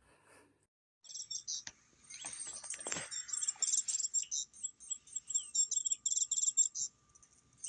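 Rapid, high-pitched bird-like chirping and twittering in quick repeated trills, starting about a second in, with a few soft knocks in the first half.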